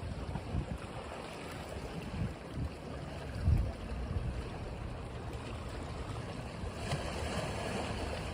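Ocean waves breaking and washing on a beach, a steady wash with low rumbling gusts of wind on the microphone; a wave surges in louder about seven seconds in.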